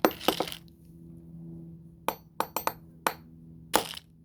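Sharp clinks and knocks of small hard toy-car pieces being handled and knocked together: a quick cluster at the start, a handful of single clicks around the middle, and the loudest knock near the end.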